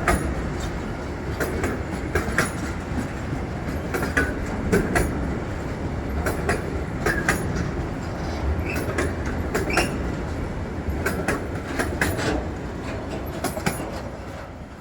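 Train passing on the line: a steady rumble of rolling wheels with frequent clicks and knocks as they cross rail joints, and a few brief squeaks. It fades away near the end.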